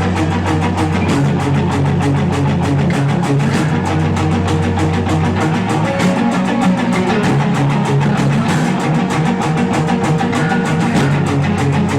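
A rock band playing live: guitars over a fast, steady drum beat, loud and continuous.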